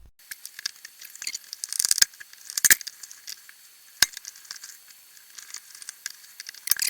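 Small plastic parts of a waterproof switch box being handled and fitted together: light scraping and rattling with sharp clicks about two, two and a half and four seconds in, and a quick run of clicks near the end.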